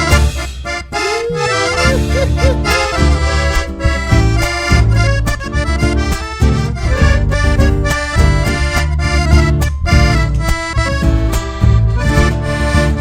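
Instrumental passage of a live Argentine zamba, an accordion carrying the melody over a steady drum beat.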